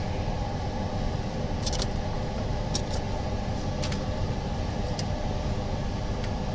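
Steady mechanical hum of running machinery, with a few light clicks about once a second in the middle.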